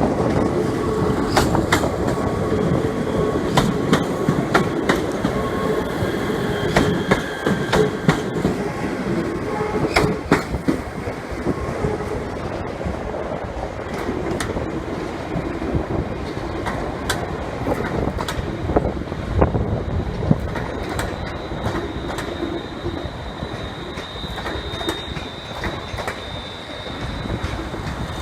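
Train running through a station, its wheels clicking irregularly over rail joints and points, with thin high-pitched wheel squeals, the longest in the last quarter.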